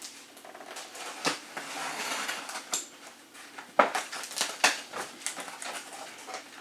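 A knife cutting open a cardboard shipping package: scraping and rustling, with several sharp knocks and clicks from handling the box.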